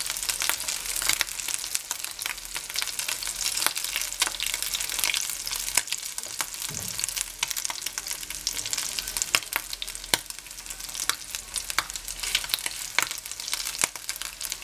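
Rice fritters frying in hot oil in an earthenware cazuela: a steady sizzle with frequent sharp crackling pops as the rice spits.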